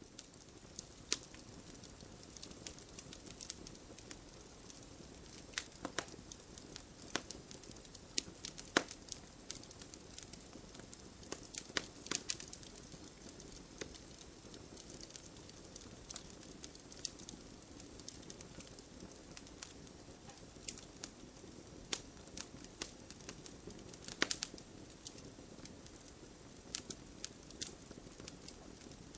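Fireplace fire crackling: irregular sharp pops and snaps over a soft, steady hiss of burning. The loudest pops come about 9 s and 12 s in and again near 24 s.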